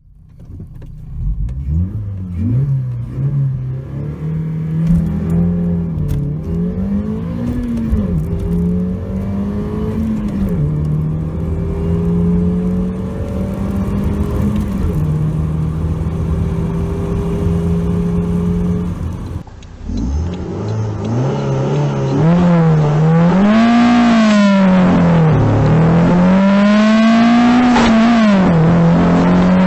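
Toyota MR2 engine accelerating hard through the gears, the revs climbing and dropping back at each shift. About 19 seconds in it cuts to a second, louder MR2 run doing the same, with several quick rev climbs and drops and a steady climb near the end.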